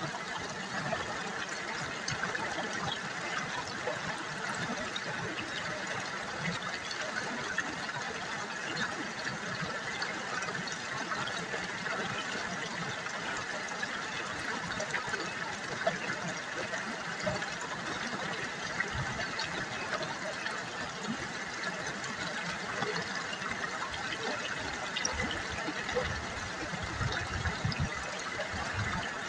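River water babbling and trickling steadily, with many fine small splashes.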